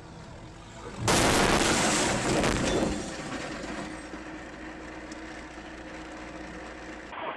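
A vehicle collision: a sudden loud crash about a second in that lasts around two seconds, then settles into a steady hum with a low held tone.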